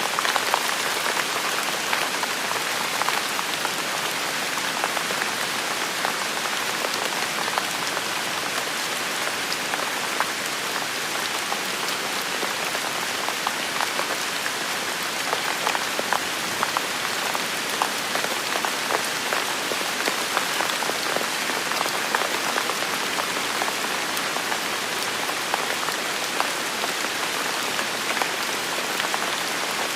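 Steady rain falling on hard surfaces, with many individual drops ticking close by.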